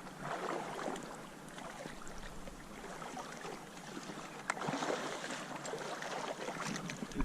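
Faint water sloshing and splashing, with a few small knocks, one sharper click about four and a half seconds in.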